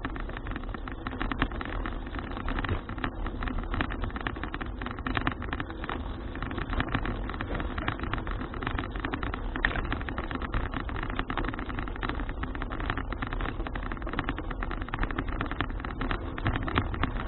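Continuous riding noise from a folding city bicycle on the road: a steady tyre-and-wind rumble with dense fine rattling and clicking throughout.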